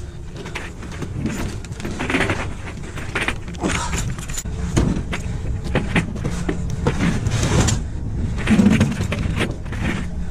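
Rummaging through trash in a dumpster: irregular rustling, with glass jars clinking and knocking against each other, over a steady low rumble.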